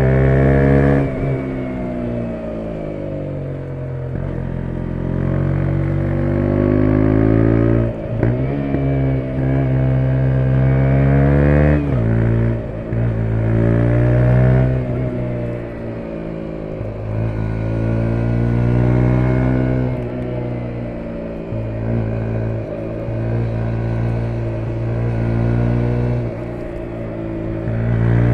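2017 KTM 125 Duke's 125 cc single-cylinder four-stroke engine under way. It revs up through the gears, with the pitch dropping sharply at each shift a few seconds apart. It winds down off the throttle near the start and again about midway.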